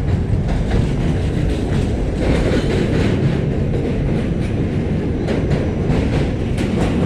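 New York City subway Q train car running along the track: a steady loud rumble of wheels on rail, with sharp clicks and clacks here and there as the wheels pass over rail joints.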